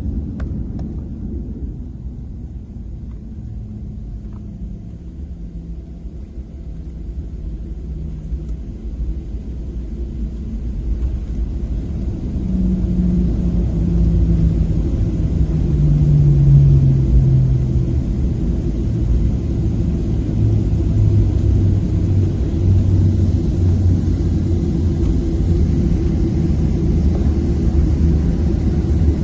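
Cabin noise of a Boeing 737-700 during landing: a steady low rumble from its CFM56 engines and the airframe. From about halfway through it grows louder, and a low hum steps down in pitch.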